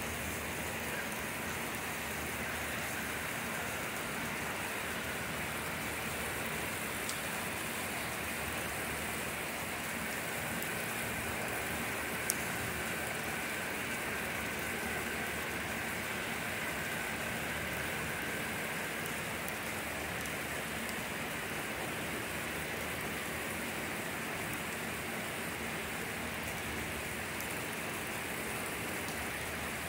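A steady downpour falling on trees, grass and the ground, making a constant, even hiss. A single brief click sounds about twelve seconds in.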